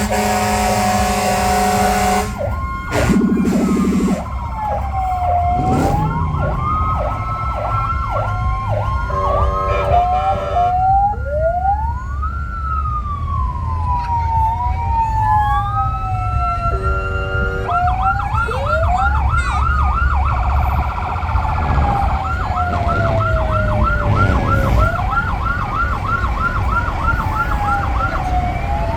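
Sirens on passing trucks, wailing slowly up and down and switching to a fast yelp of about three cycles a second in the second half, over the low rumble of diesel truck engines. A horn sounds at the start, and shorter horn notes come twice later.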